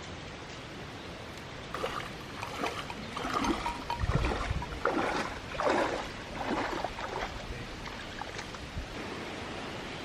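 Creek water running steadily at a rainforest swimming hole, with a few seconds of louder, irregular sounds over it in the middle.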